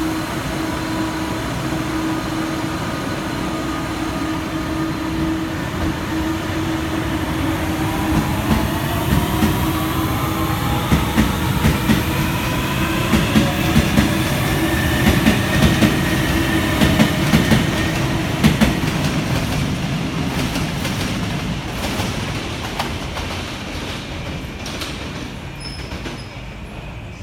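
Guangzhou Metro Line 1 train pulling away: the traction motors' whine climbs in pitch as it gathers speed, and the wheels clatter over rail joints. The sound fades near the end as the train leaves.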